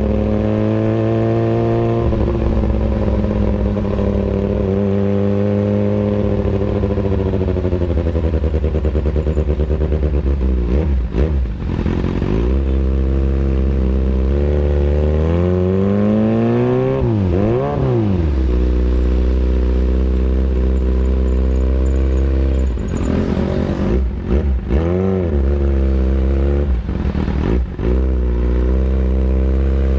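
Kawasaki Ninja ZX-636's inline-four engine through an Austin Racing aftermarket exhaust, running with its pitch drifting up and down, a few brief dips, and a rev up and back down about two-thirds of the way through.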